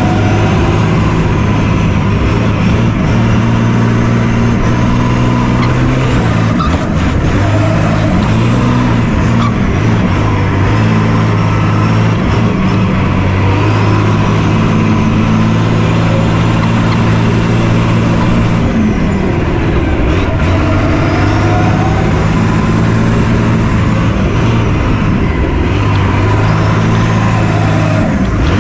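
A vehicle engine running continuously, its pitch stepping up and down every few seconds, with a faint high whine that rises and falls several times.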